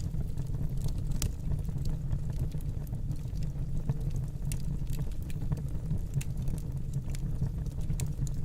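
Fire burning in a fireplace: a steady low rumble of flames with irregular sharp crackles and pops, about one a second.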